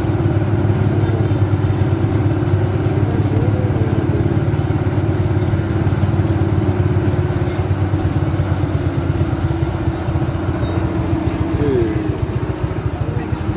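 Mitsubishi 190 PS truck's diesel engine running steadily with a dense low pulse, easing slightly near the end.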